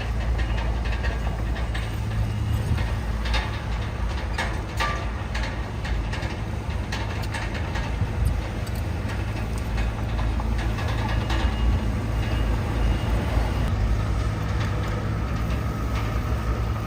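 Heavy diesel engine of earthmoving machinery running steadily, with scattered clicks and knocks on top.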